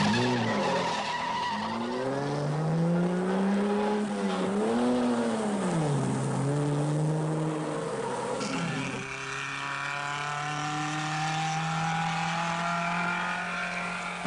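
Rally car engine revving hard on a mountain climb. Its note rises and falls several times with gear changes and throttle through the bends, then after about nine seconds it is held at high revs and climbs slowly.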